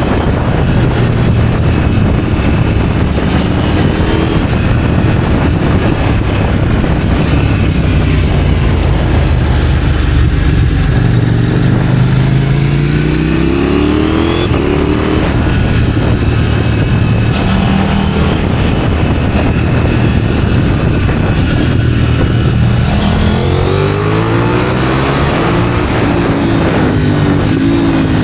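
KTM 790 Duke's parallel-twin engine through an IXRACE aftermarket exhaust, accelerating through the gears several times, each rise in pitch broken by a drop at the shift, with steadier running in between.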